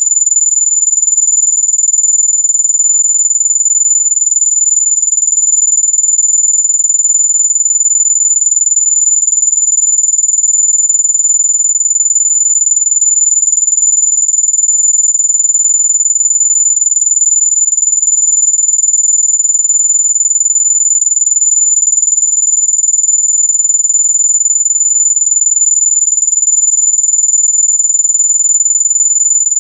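Steady high-pitched pure tone of an electronic mosquito-repellent sound, held at one pitch at a constant level.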